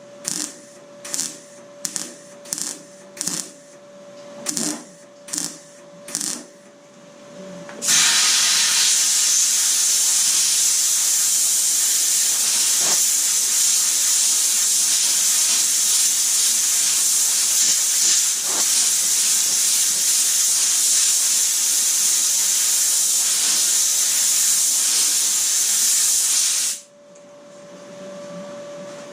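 Workshop tools on car-body repair: a run of short bursts, roughly one or two a second, then a loud steady hiss for about nineteen seconds that cuts off suddenly.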